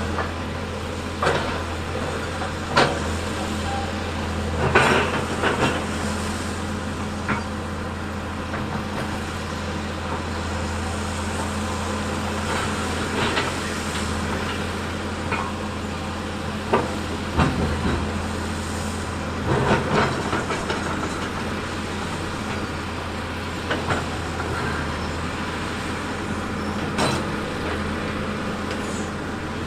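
Heavy earthmoving machine's diesel engine running steadily under work, with irregular sharp metallic clanks and knocks every few seconds.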